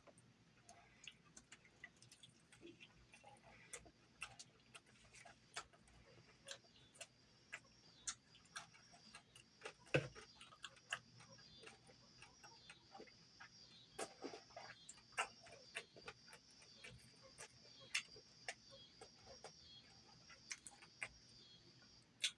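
Close-up eating sounds: soft, irregular clicks and smacks of chewing and lips, with a sharper click about ten seconds in.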